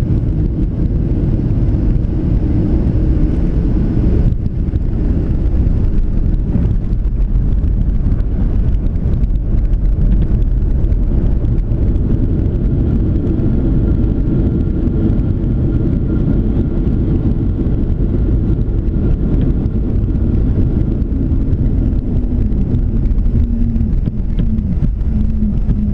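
Steady low rumble of cabin noise inside a Boeing 737-700 airliner: engine and airflow noise, with the higher hiss thinning about four seconds in.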